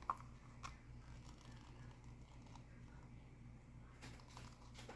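Faint, scattered light clicks of resin-coated buttons being scooped and dropped into a bird-shaped mold, a few more near the end.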